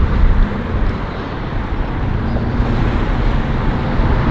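Strong wind buffeting the microphone in uneven low rumbles, with road traffic going by.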